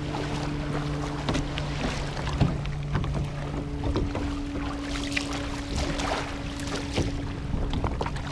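Water sloshing and knocking against a kayak hull in a quick irregular run, over a steady low hum that changes pitch about four seconds in.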